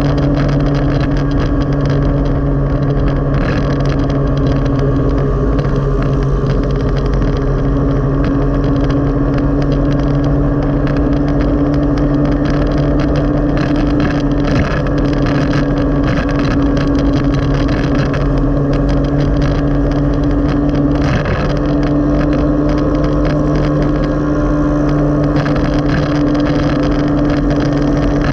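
Motorcycle engine of a sidecar tricycle running at a steady cruising speed, heard on board along with road noise. Its drone holds one pitch, with brief breaks about halfway and about three-quarters of the way through.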